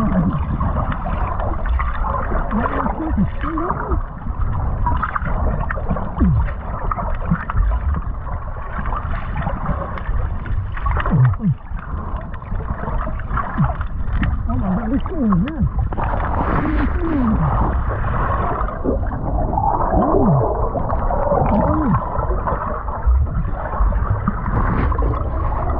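Water sloshing and gurgling around a camera held at the ocean surface by a swimmer, with short muffled vocal glides scattered through.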